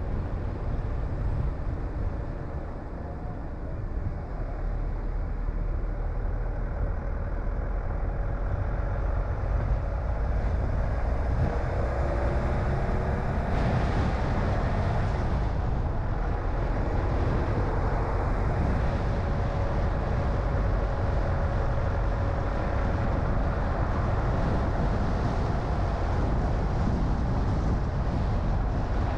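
Car driving on a road: steady engine and tyre noise that grows louder over the first several seconds, with a faint engine note drifting up and down partway through.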